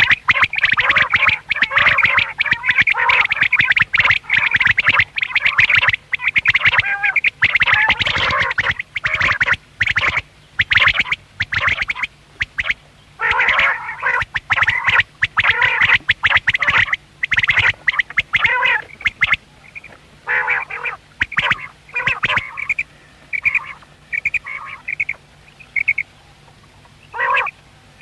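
Several quails calling in rapid, overlapping chatter. The calls run almost without a break for the first half, then come in shorter separate bursts with gaps between them.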